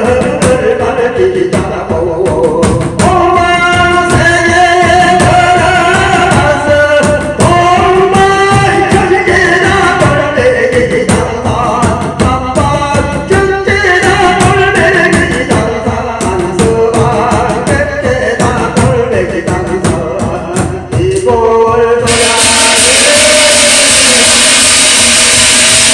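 A man's voice chanting a Korean shamanic gyeongmun invocation in a sliding, melismatic line over steady drum beats. About 22 seconds in, this cuts off abruptly and a steady hiss with a held tone takes over.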